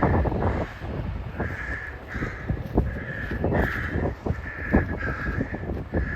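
Crows cawing again and again over heavy wind buffeting the microphone.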